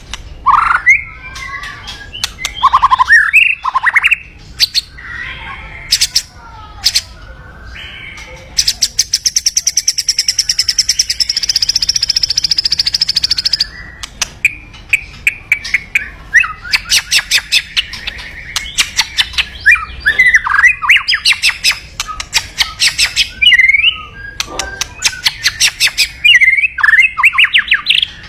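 White-rumped shama singing a long, varied song of whistled phrases and runs of rapid repeated notes, with a fast high rattle of about five seconds near the middle.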